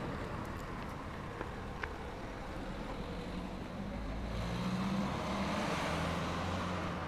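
Engine of a slow-moving car running steadily in a low gear up a steep road, with tyre and road noise; the engine hum grows a little louder about four seconds in.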